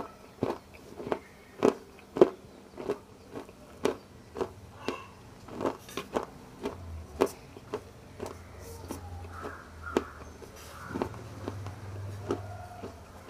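Close-up chewing and crunching of something hard and brittle in the mouth, a sharp crunch about twice a second, growing softer and sparser in the last few seconds.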